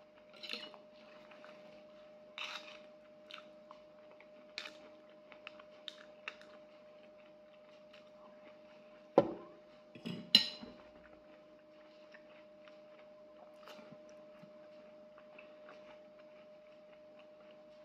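Close-up chewing and eating sounds with scattered small clicks, and two sharp knocks about nine and ten seconds in from a metal spoon and tin can being handled. A faint steady hum runs underneath.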